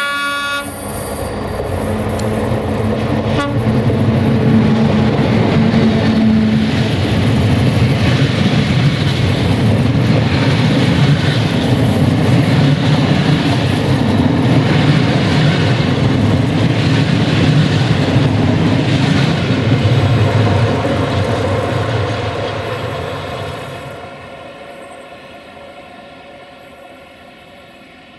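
The end of an electric locomotive's horn blast, then a 060-EA electric locomotive and a rake of double-deck passenger coaches running past at close range, wheels rumbling and clacking over the rails. The sound fades as the train draws away, about 22 seconds in.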